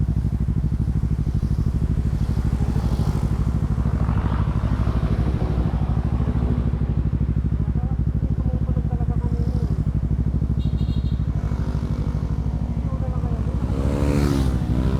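Kawasaki Z650 parallel-twin idling steadily through a Yoshimura Alpha exhaust, with faint voices in the background.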